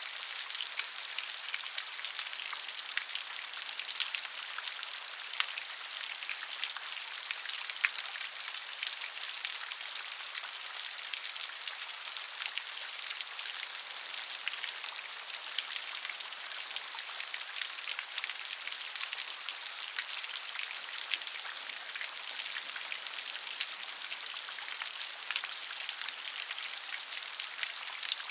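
Steady rain, a dense patter of many small drops striking a surface.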